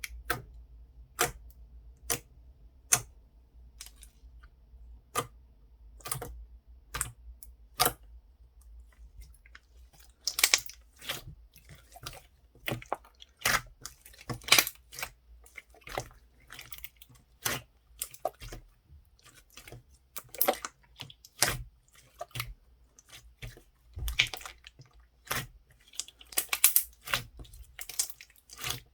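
Irregular sharp clicks and taps, some single and some in quick clusters.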